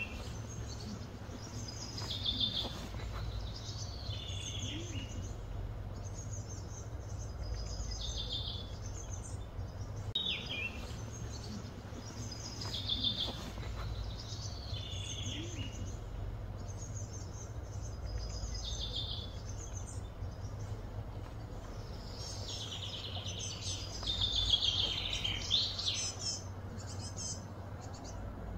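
Songbirds calling again and again, a short chirping phrase every two or three seconds, with a busier run of calls near the end, over a steady low background hum.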